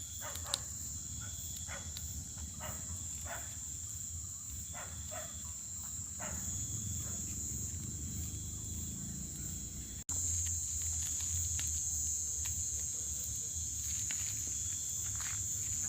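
Insects chirring in one steady, high, unbroken tone over a low rumble, with scattered short clicks. The sound drops out for an instant about ten seconds in and comes back a little louder.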